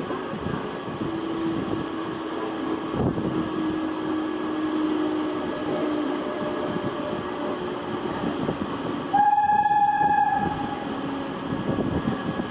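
Indian Railways train running past with a steady rumble, and a locomotive horn sounding once for about a second near the end.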